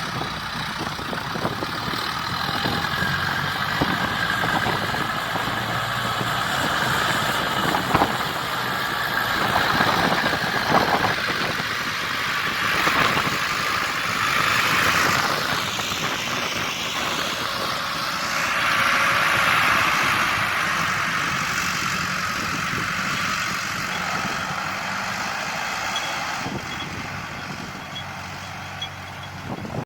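Heavy diesel engine running steadily, swelling louder for several seconds around the middle before settling again.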